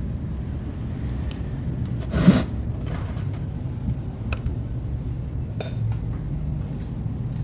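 Eating sounds: one loud, short mouth noise about two seconds in and a few faint clicks like utensils touching a dish, over a steady low rumble.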